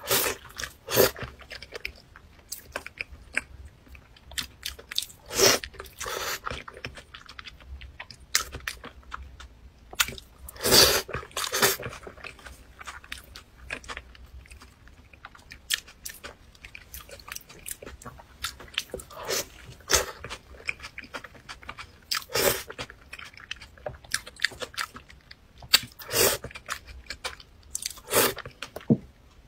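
A person chewing and biting food close to the microphone, in irregular bursts with a louder bite or mouth sound every few seconds.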